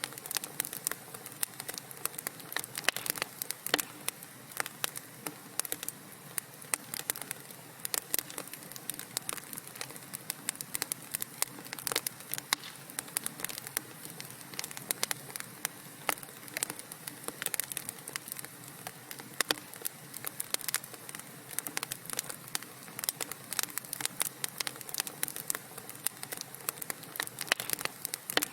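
Wood fire crackling in a fireplace: many irregular sharp pops and snaps of burning logs, several a second, over a soft steady hiss.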